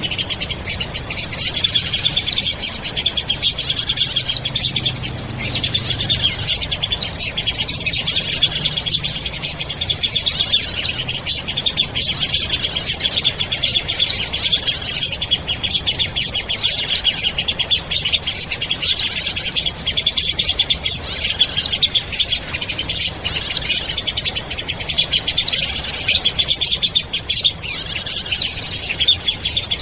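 Bird-luring call recording ('suara pikat'): dense, fast twittering of small birds, with short sharp whistles repeating about every second over it.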